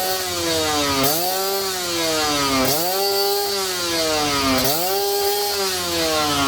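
Two-stroke single-cylinder Kawasaki Ninja 150 R/RR engine breathing through a stainless WRC racing exhaust, revved in repeated blips: about four times the pitch shoots up and then sinks back slowly. The exhaust note is crisp, with a raspy edge.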